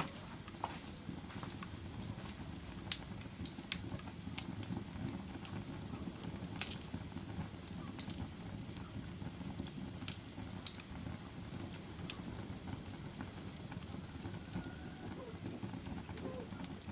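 Fire crackling: a steady low rumble of flames with sharp, irregular pops and snaps scattered through it, a few of them louder, about three seconds in and near six and twelve seconds.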